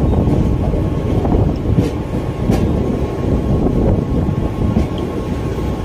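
Mumbai suburban electric local train running along the track, heard from on board: a steady low rumble of wheels on the rails, with a couple of sharp clicks about two seconds in.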